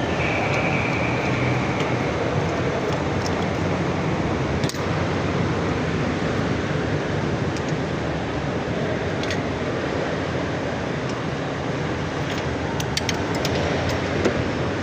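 Forklift engine running steadily, with a few light clicks near the end.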